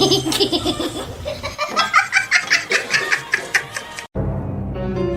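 A person laughing in quick, rhythmic bursts, then an abrupt cut about four seconds in to music with long held notes.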